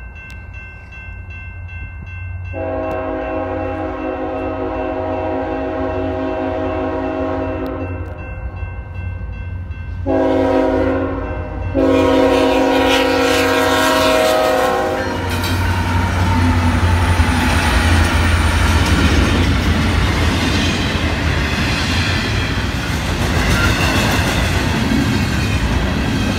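BNSF diesel freight locomotive sounding its multi-chime air horn for a grade crossing: a long blast, a short one and another long one, over the rumble of the locomotives' diesel engines as they come by. After the horn stops, a little past halfway, the double-stack container cars roll past with steady wheel-on-rail noise and clickety-clack.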